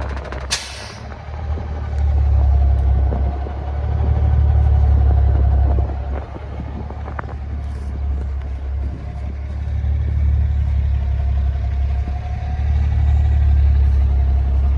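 Natural-gas engine of a Kenworth T800 semi truck running with a deep rumble that swells louder and eases back several times. A short sharp hiss sounds about half a second in.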